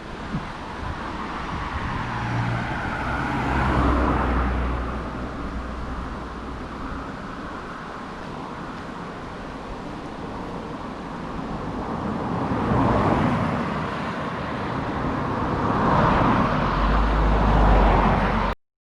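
Motor vehicles passing by: engine and tyre noise swells three times, with a low engine hum under the first and last swells, and the sound cuts off suddenly near the end.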